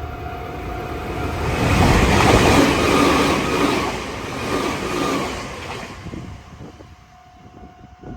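A Nankai Railway train passes at speed, its noise swelling to a peak about two seconds in and dying away after about six seconds. A steady level-crossing bell tone sounds before the train drowns it and returns near the end.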